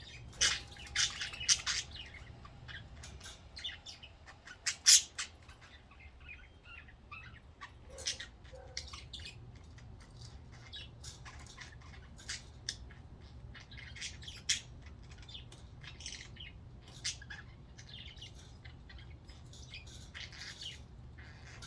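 A flock of budgerigars chirping and squawking in short, scattered calls, with a few louder squawks about a second and five seconds in.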